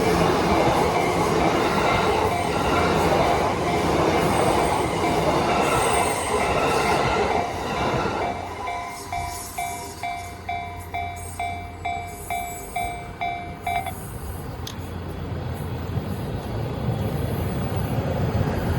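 Yamanote Line electric train running loudly through a level crossing, with the crossing's warning bell ringing about twice a second. The train noise falls away about eight seconds in, leaving the bell ringing on its own until it stops about six seconds later. A low rumble rises again near the end.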